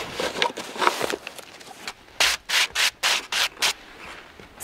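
A run of about seven quick rubbing or scraping strokes, roughly four a second, a little after two seconds in, with faint scattered rustling before them.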